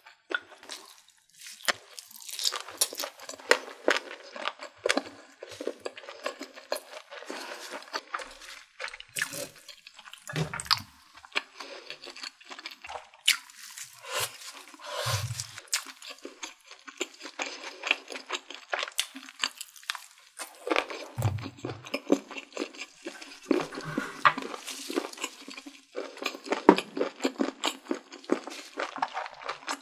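Close-miked chewing of food in the mouth: irregular crunching and wet, sticky clicks with no pause. A few dull low thumps fall in among them.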